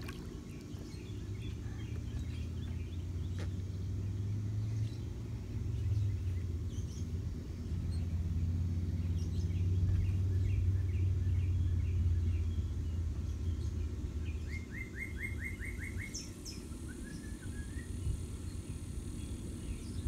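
Small birds chirping outdoors: scattered short chirps, then a quick run of about six chirps in a row later on, over a steady low rumble that swells in the middle and eases off again.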